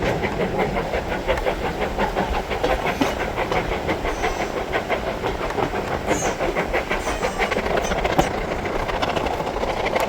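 Steam-hauled passenger train running: a fast, regular chuffing beat with the run of the carriage wheels on the rails, and a few brief faint high squeals.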